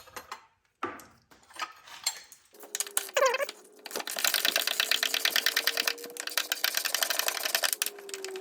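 A few metal tool clinks, then a small power tool motor starts with a short rising whine and runs for about four seconds with a rapid, even clicking while backing out a suspension bolt.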